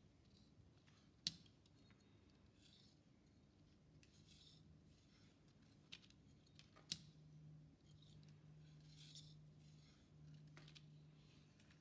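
Faint clicks and small scraping handling noises, with a low steady hum coming in partway through.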